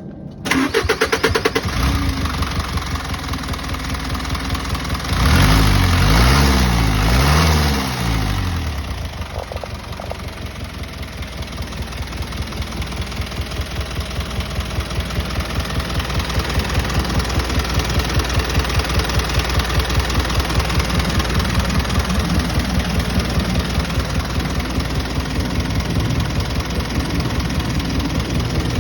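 Hino Dutro's S05D diesel engine started: it fires up about half a second in, is revved twice a few seconds later, then settles into a steady idle.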